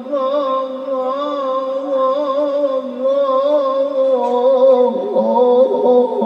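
Male voice singing sholawat in one long, wavering melismatic line. About five seconds in, an accompaniment of short instrumental notes comes in beneath it.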